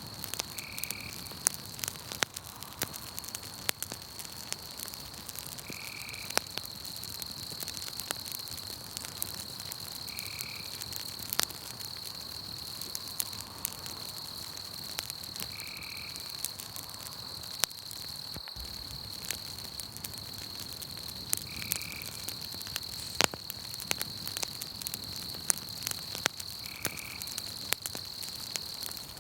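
Campfire crackling with frequent sharp pops, over a steady high insect trill. A short animal call repeats about every five seconds.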